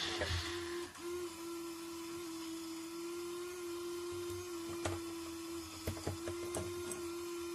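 Electric motor of a custom automatic prayer-bead-making machine running with a steady hum, a few light clicks about five to seven seconds in.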